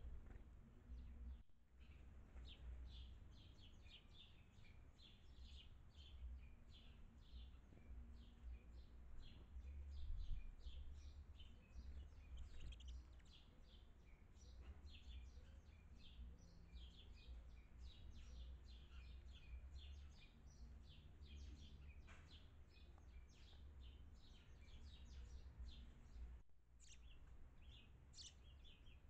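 Small birds chirping faintly and continuously, a dense run of quick, short, high calls, over a low steady rumble.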